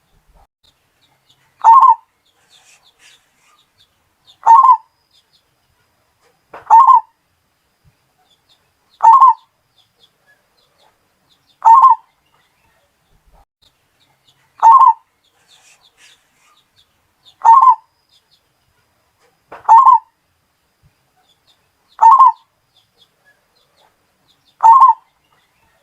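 Zebra dove (perkutut, Bali type) cooing: short phrases of about half a second, repeated evenly about every two and a half seconds, ten times.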